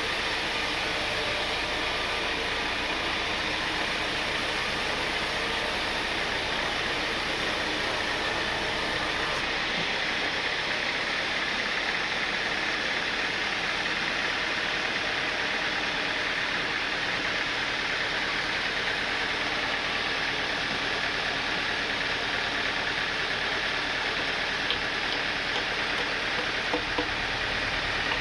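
Sawmill machinery running steadily, a constant hissing drone. About nine seconds in the low hum drops away and the hiss carries on.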